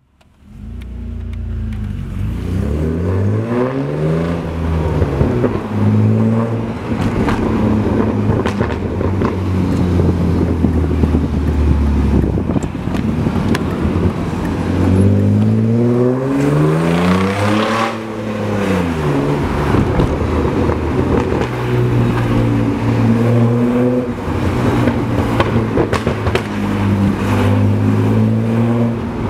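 BMW E36 328i's 2.8-litre straight-six through a replica Active Autowerke sports exhaust. The engine note climbs and falls twice as the throttle is opened and lifted, and holds steady at a moderate pitch in between.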